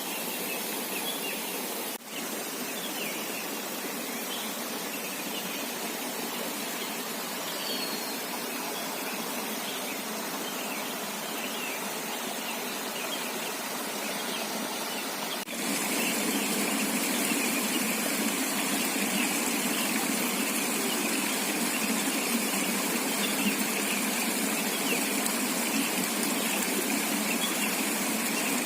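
Steady rush of river water, with many small, high chirping calls over it. About fifteen seconds in, the sound steps up a little louder and the chirps grow thicker.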